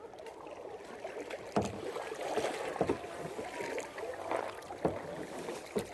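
Kayak paddling: paddle blades dipping and splashing in the water with dripping. Four sharp knocks stand out, spread over the few seconds.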